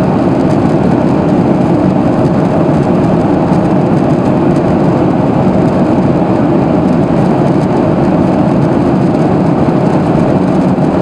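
Steady roar of a Boeing 737-800's CFM56-7B engines and airflow heard inside the passenger cabin as the jet climbs after take-off.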